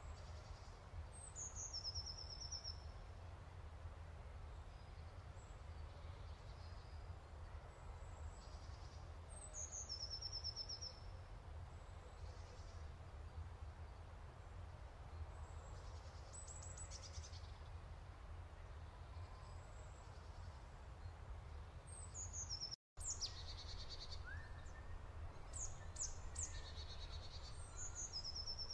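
Wild birds calling: a short phrase that drops into a high trill, repeated several times, among other scattered chirps, over a steady low rumble. The sound cuts out for a moment about two-thirds of the way through.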